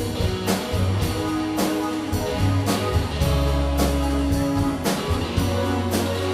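Live band playing an instrumental passage between vocal lines, the drum kit keeping a steady beat of about two hits a second under held low notes.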